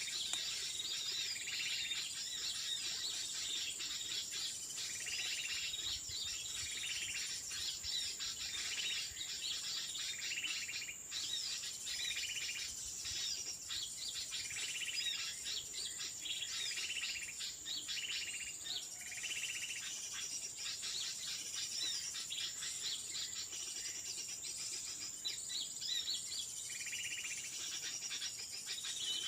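A bird calling over and over, short notes about every one and a half to two seconds, over a steady high insect drone.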